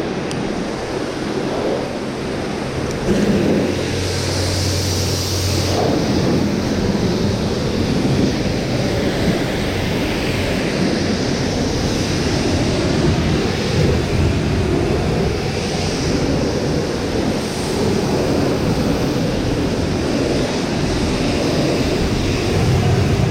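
Pressure washer running, its water jet spraying in a steady rush of noise.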